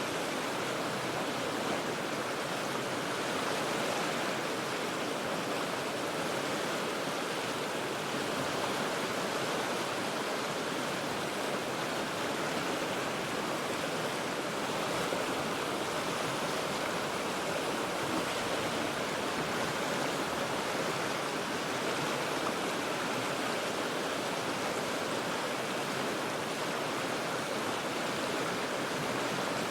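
The Cheat River rushing over rocks: a steady, unbroken wash of water noise, heard from about forty feet above the river.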